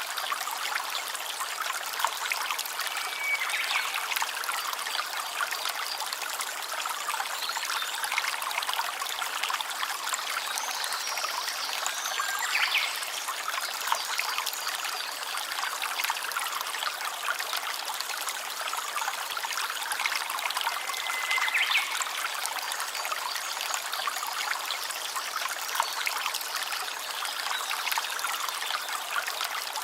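A small stream trickling steadily, with a few brief high tones now and then above the water.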